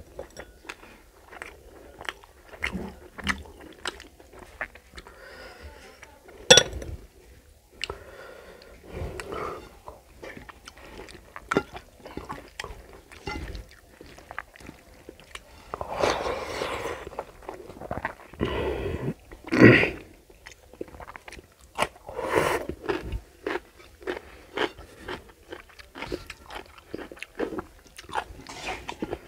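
Close-miked mouth sounds of a person eating rice and curry by hand: chewing with many quick smacks and clicks, and a few louder, longer stretches in the second half.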